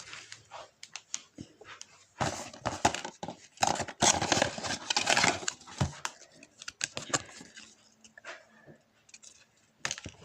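Packaging being handled during an unboxing: rustling and crinkling with small clicks, in bursts with pauses, busiest in the first half and dying down later.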